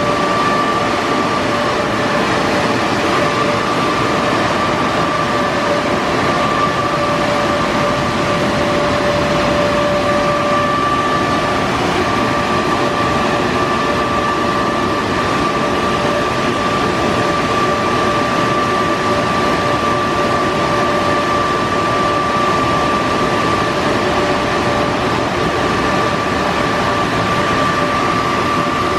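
Car wash air dryer blowers running steadily, a loud even rush of air with a high whine through it.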